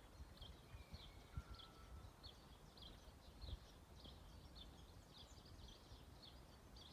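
Faint, repeated high chirps of a small songbird, about two or three a second, over a low rumble.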